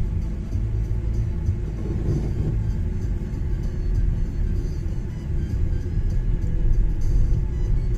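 Car driving on a snowy road, heard from inside the cabin: a steady low rumble of the engine and the tyres on the road.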